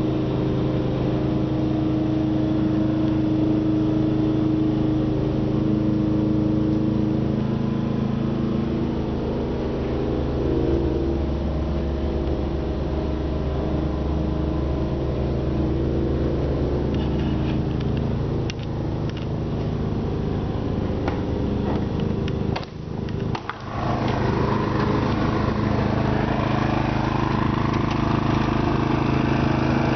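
Simplicity snow blower's engine running steadily under load. The sound briefly drops out about three quarters of the way through.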